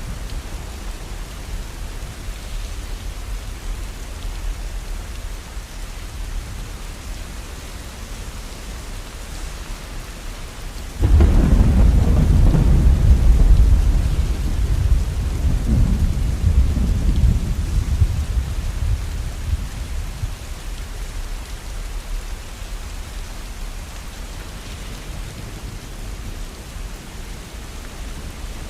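Steady rain with a sudden clap of thunder about a third of the way in, its deep rumble rolling on and fading away over several seconds.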